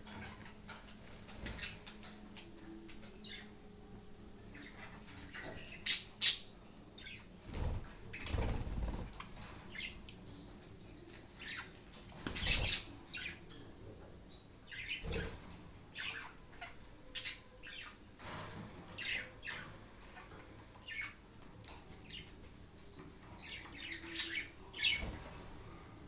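Pet budgerigars chirping in short, scattered calls, with bouts of wing fluttering and rustling. The loudest are two sharp chirps about six seconds in.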